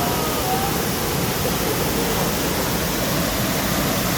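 Waterfall close by: a steady, loud rush of falling and splashing water.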